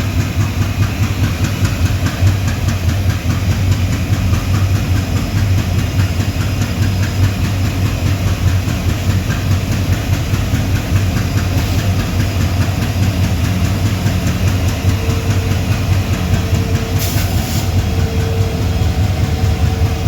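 Heavy-duty diesel locomotive engine running steadily with a deep, loud hum. In the last few seconds a steady higher tone comes and goes, and there is a short hiss.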